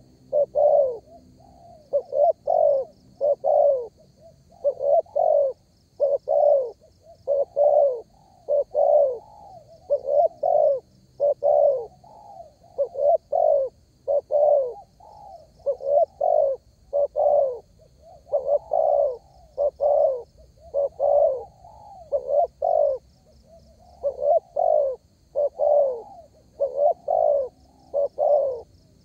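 Spotted dove cooing over and over, in short phrases of two or three low coos that repeat every second or two. Faint high chirping runs underneath.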